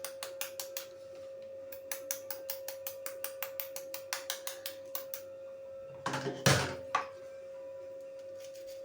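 Rapid, even clicking of a kitchen utensil, about five strokes a second, in two runs, then a short, louder clatter about six and a half seconds in. A steady high hum runs underneath.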